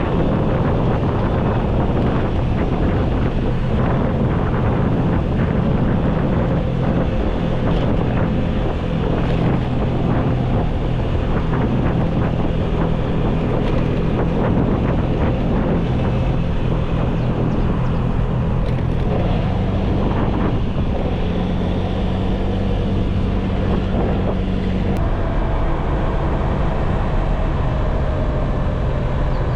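An engine running steadily, its pitch shifting a few times, with wind buffeting the microphone.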